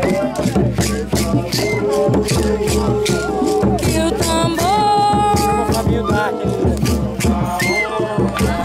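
Music of hand percussion: shakers and drums keeping a steady rhythm, with voices or a melodic line sliding over it.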